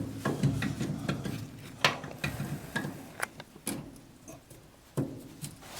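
An oil filter wrench being fitted to and turning a brake master cylinder cap: a few separate clicks and knocks a second or so apart, with fainter handling noise between.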